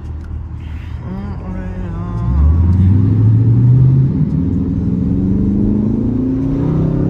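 Straight-piped Dodge R/T's 5.7-litre HEMI V8 exhaust, running low at cruise and then, about two and a half seconds in, opening up under throttle with the revs climbing steeply. It drops at a gear change about four seconds in and then climbs more slowly through the next gear.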